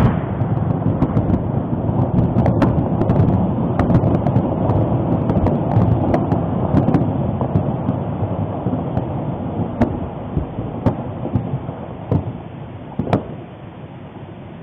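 Dense, low rumbling noise with scattered sharp crackles and clicks, fading gradually over the last few seconds.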